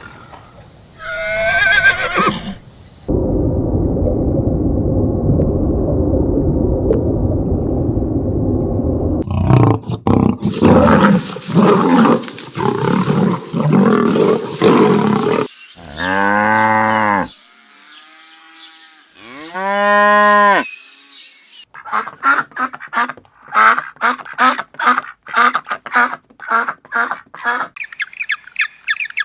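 Farm animals calling, one after another: two drawn-out calls that rise and fall in pitch around the middle, and a fast run of short repeated calls near the end.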